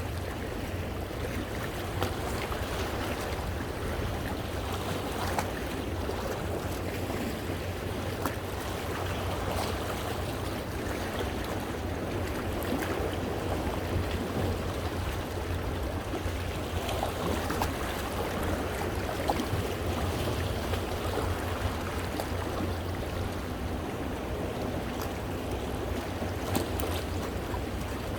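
Sea waves washing against and among shoreline rocks, water sloshing and splashing between them. A steady rush with a low rumble underneath and small splashes scattered through it.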